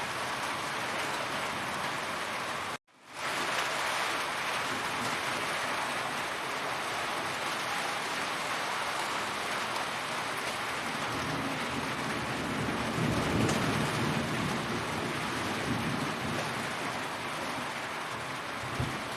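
Heavy rain falling steadily, with a low rumble swelling and fading in the middle. The sound cuts out for a split second about three seconds in, then comes back.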